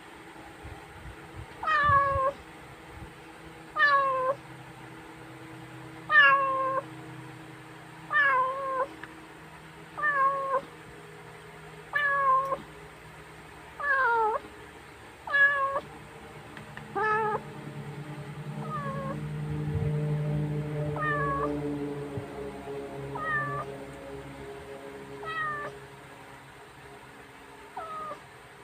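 Domestic cat meowing over and over, about one call every two seconds, each meow falling in pitch; the calls are loud at first and grow fainter later. A low steady rumble sounds for a few seconds in the middle.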